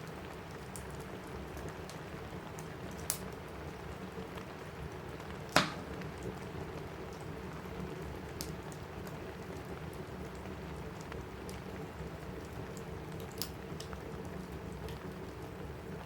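Steady rain on a cabin roof with a wood fire crackling in a fireplace, giving a few sharp pops; the loudest pop comes about five and a half seconds in.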